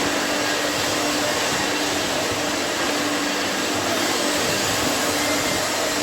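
Steady, even rushing roar of blast-furnace plant air and machinery, with a faint low hum that comes and goes.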